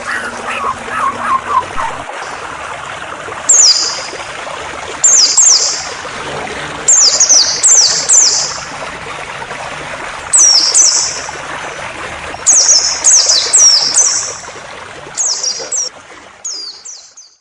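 Songbird calling over steadily flowing water: clusters of sharp, high chirps that each sweep downward in pitch, repeated in short bursts of two to four, after some lower warbling notes at the start. The whole fades out near the end.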